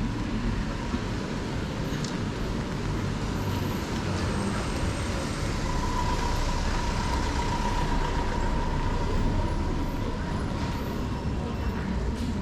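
Street traffic: a motor vehicle passing, with a steady whine that grows stronger and then fades from about halfway through.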